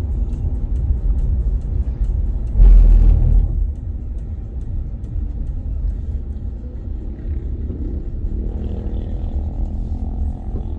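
Steady low rumble of a moving vehicle heard from inside it, with a louder low surge lasting about a second, about two and a half seconds in.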